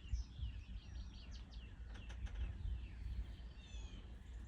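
Small songbirds chirping and singing, a run of quick short notes and falling whistles, with a brief trill near the end, over a steady low rumble.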